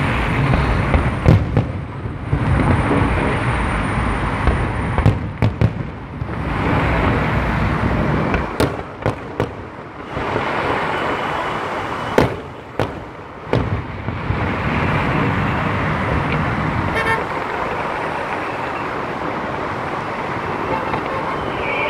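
Aerial fireworks bursting: sharp bangs and cracks, several in quick clusters, over a steady wash of road traffic noise.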